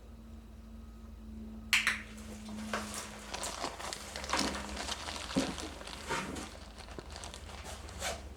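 A string of irregular crinkly rustles and light knocks, beginning sharply about two seconds in and ending with a last knock near the end, over a low steady hum.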